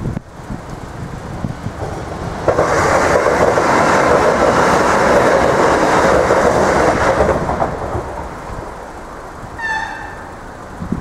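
Irish Rail DART electric commuter train passing at a level crossing, its wheels clacking on the rails. The noise rises sharply about two and a half seconds in, holds for about five seconds and fades away. Near the end there is one brief high tone.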